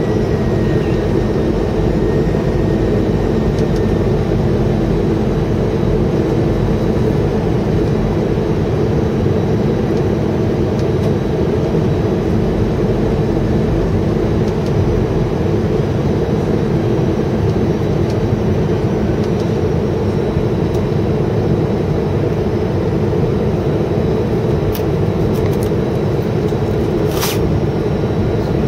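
Steady engine and airflow noise inside an Airbus A320's cabin during the approach, with a brief click near the end.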